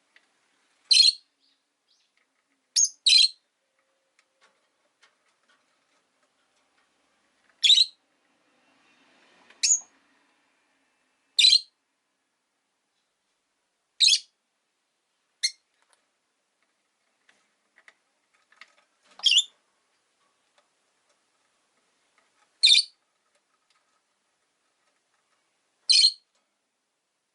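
Rosy-faced lovebirds giving short, sharp, high-pitched chirps one at a time, about eleven calls spaced irregularly every one to four seconds, two of them in quick succession near the start.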